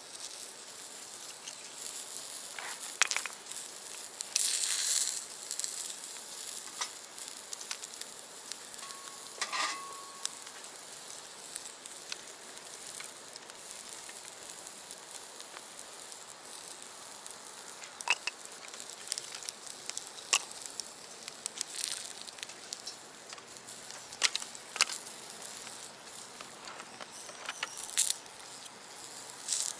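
Food sizzling in a cast-iron skillet over a small wood-burning box stove: a steady high hiss with scattered sharp pops and crackles, and a brief louder flare of sizzling about four seconds in.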